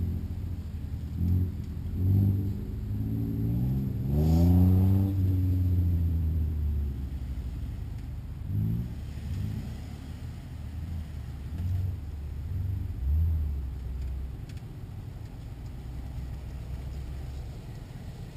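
Jeep Wrangler's engine revving in short bursts as it crawls along a rough off-road trail. The longest and loudest is a rising rev about four seconds in, followed by several brief blips of throttle.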